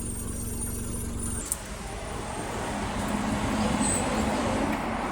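Road traffic: a vehicle engine running, with a broader rush that swells about halfway through as a vehicle passes.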